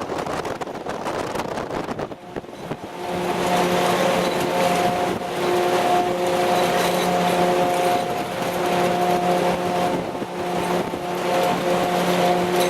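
Military convoy vehicle driving: a rush of road and wind noise, joined about three seconds in by a steady, even-pitched drivetrain hum.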